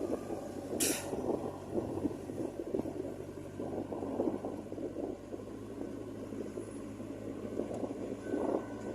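JCB 3DX backhoe loader's diesel engine running steadily while working, with rough clattering working noise over the engine hum. A short hiss comes about a second in.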